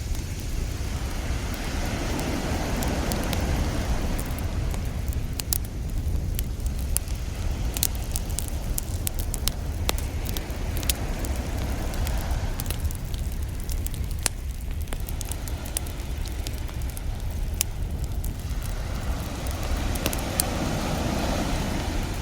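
Wood fire crackling with frequent sharp pops and snaps, over ocean surf that swells and ebbs slowly, with a steady low rumble underneath.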